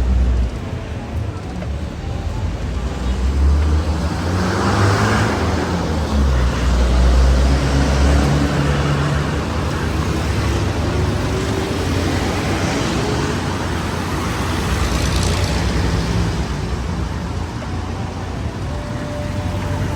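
Road vehicle engine and traffic noise: a steady low rumble with a slowly rising engine tone partway through.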